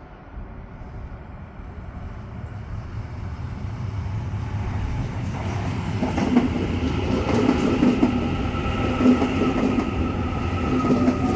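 A 4-car Mariyung (NSW D set) electric train pulling into the platform. It grows steadily louder, and from about halfway through a steady whine from the train comes in over the rumble of the wheels, with a pitch that sinks a little near the end as the train slows.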